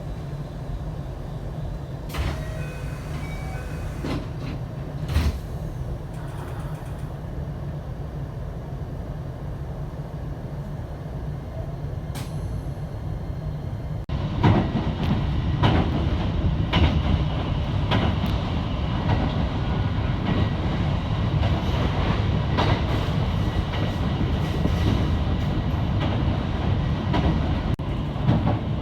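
Electric passenger train running, heard from inside the carriage: a steady low rumble with occasional wheel clicks over rail joints. About halfway through, the noise turns suddenly louder, with the clickety-clack of the wheels coming regularly.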